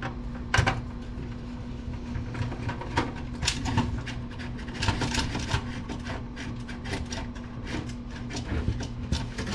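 Scattered clicks and small knocks of metal and plastic desktop-computer parts being handled while the last screw holding the motherboard is removed, with a loud knock about half a second in, over a steady low hum.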